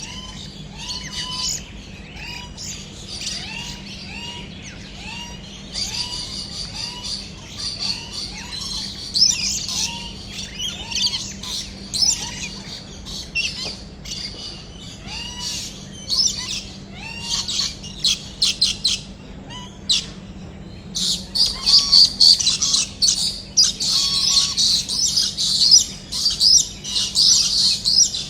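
A flock of aviary birds calling: a short hooked whistle repeated about twice a second, over dense high-pitched chattering and chirping that grows louder about three-quarters of the way through. A faint steady low hum sits underneath.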